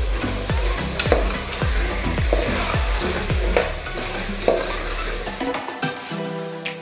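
A spoon stirring and scraping chicken pieces as they sizzle and fry in oil in an aluminium pressure cooker. Background music with a steady beat plays underneath and turns to held notes near the end.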